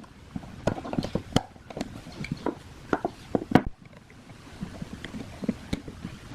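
Irregular clicks, knocks and taps of hand work on old ceiling-fan parts, with a quieter stretch just past the middle.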